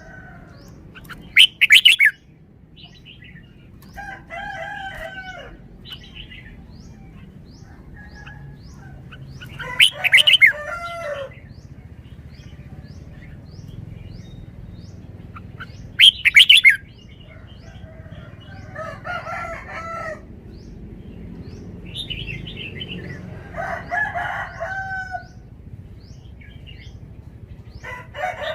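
Red-whiskered bulbul singing: short, loud phrases every few seconds, the loudest three about a second and a half in, ten seconds in and sixteen seconds in, with a faint repeated chirping call from another bird in the first part.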